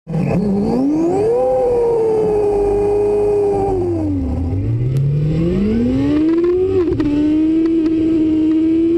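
Motorcycle engine under acceleration: the pitch climbs quickly, eases down to a low point about four seconds in, climbs again, then holds steady near the end.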